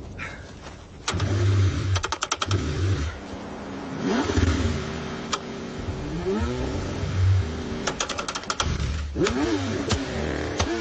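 Car engine cranking over in freezing cold, struggling to start. There are two spells of rapid clatter from the cranking, and the engine's pitch rises and falls as it tries to catch.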